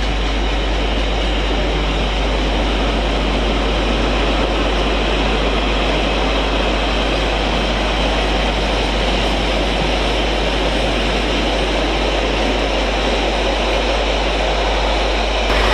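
A train passing through the station at speed, heard as a loud, steady rush of rail and air noise.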